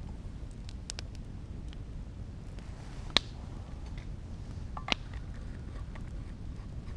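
Wood campfire burning, with a few sharp crackles and pops, the loudest about three seconds in and another about five seconds in, over a steady low rumble.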